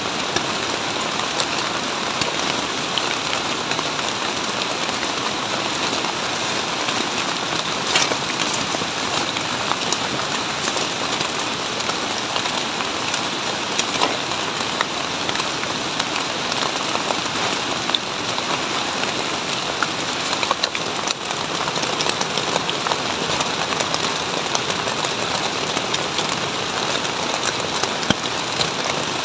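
Heavy rain falling steadily, with scattered sharp taps of single drops.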